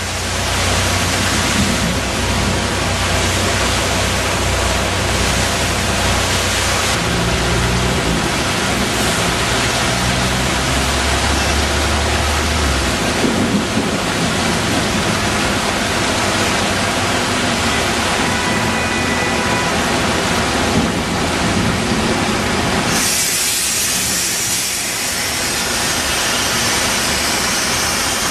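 Heavy rain pouring steadily, with a vehicle engine rumbling low underneath for roughly the first half. About three-quarters of the way through, the rain's hiss turns sharper and brighter.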